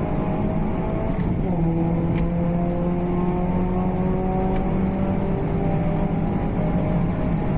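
Alfa Romeo Giulietta Quadrifoglio Verde's turbocharged 1750 four-cylinder pulling hard under acceleration, heard from inside the cabin. Its pitch climbs steadily, drops once about a second and a half in at a gear change, then climbs again. Three short sharp clicks sound over it.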